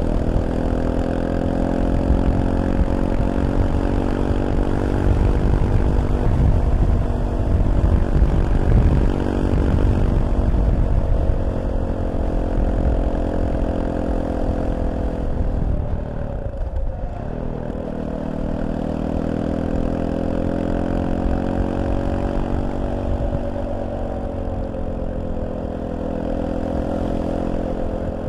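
Fantic Caballero 500's single-cylinder four-stroke engine running under way at a steady road speed, its note rising and falling gently with the throttle. About sixteen seconds in the engine note drops briefly, then picks up again.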